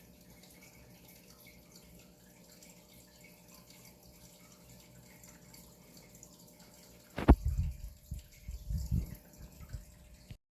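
Faint trickling and dripping of aquarium water. About seven seconds in, a sharp knock, then a couple of seconds of loud low thuds and rumbling before the sound cuts off.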